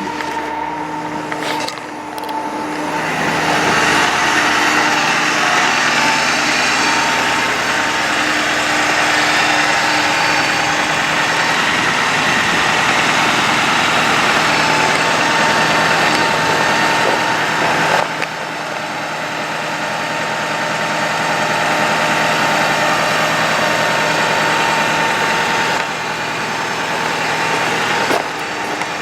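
Bucket truck's engine running with the PTO hydraulic pump engaged. About three seconds in it grows louder and rushing as the boom hydraulics are worked. It eases off briefly about halfway through and drops back near the end.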